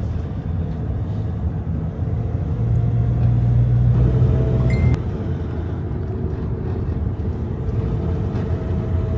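Motor vehicle running on the road, a steady low rumble of engine and road noise; a louder low engine tone drops away about five seconds in.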